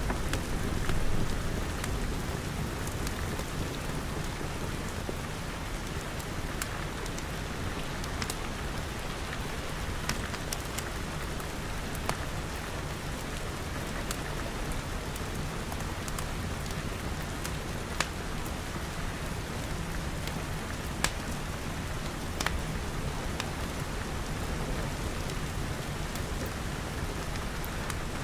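Steady rain falling, with a few sharp, isolated crackles from a wood fire now and then.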